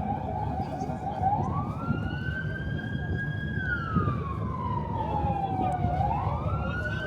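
Emergency vehicle siren sounding a slow wail: its pitch rises about a second in, holds, falls slowly over a few seconds, then rises again near the end, over a steady low rumble of city noise.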